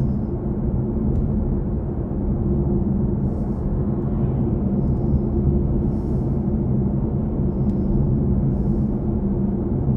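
Steady road and tyre rumble inside the cabin of a BMW i4 M50, an electric car, while driving, with no engine note and a low, even hum.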